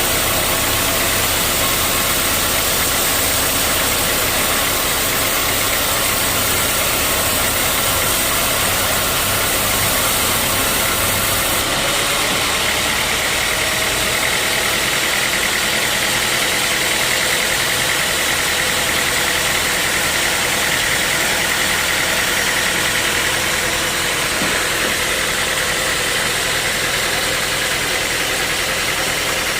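Sawmill saw machinery running steadily with a loud mechanical hum, its sound changing character about twelve seconds in.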